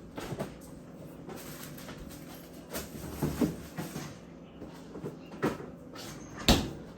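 Kitchen handling sounds as a covered dish of chicken goes into the refrigerator: the fridge door and the dish being moved, with a few light knocks and a sharp knock about six and a half seconds in.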